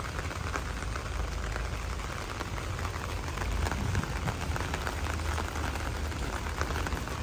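Steady rain falling, with many small drops ticking close by over an even hiss, and a low rumble underneath.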